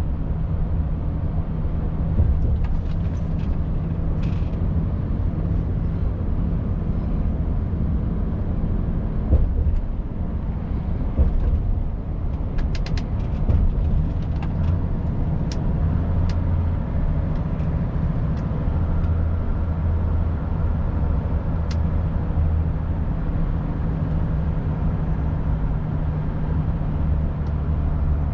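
Volvo FH 500's 13-litre straight-six diesel running steadily while the truck drives, a low drone with road noise, and a few light clicks around the middle.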